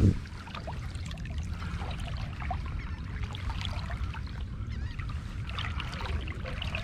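Water trickling and splashing in small scattered ticks as a kayak moves through calm water, over a steady low rumble. A single heavy thump right at the start.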